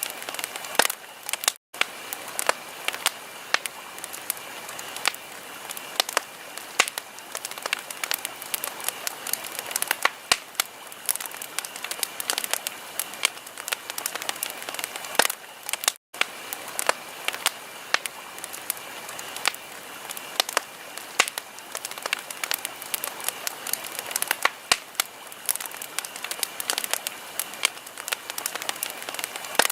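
Wood fire crackling in a fireplace: a dense, irregular run of sharp pops and snaps over a steady low hiss. The sound cuts out for an instant twice.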